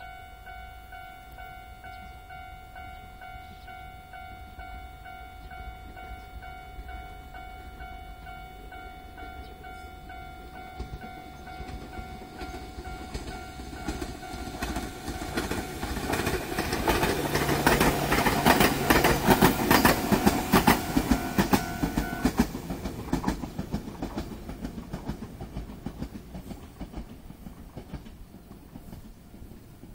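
A two-car Alpico Kotsu Kamikochi Line electric local train approaches, passes close by with its wheels clicking rhythmically over the rail joints, and fades away. A steady ringing tone sounds until just after the train has passed.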